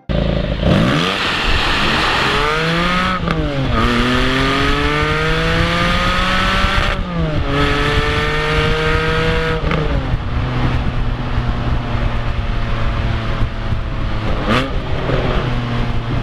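Porsche 718 Cayman GTS 4.0's flat-six accelerating hard through the gears of its manual gearbox. The note climbs steeply and drops sharply at each of three upshifts, then settles to a steady cruise, with a quick dip and rise in pitch near the end.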